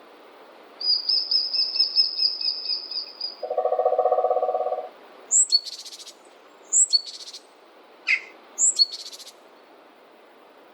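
Forest birds calling. A fast, high trill lasts about two seconds, then a lower pulsing note follows for about a second and a half. Near the end come three short high calls, each a quick rising note that runs into a rasping buzz, with a single falling note between the second and third.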